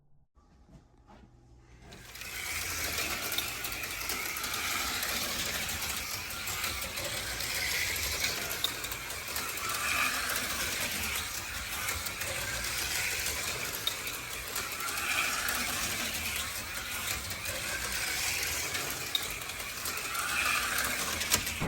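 HO scale slot cars running laps on a plastic track: a steady electric-motor whir and rattle starts about two seconds in, swelling louder about every two and a half seconds as the cars come around.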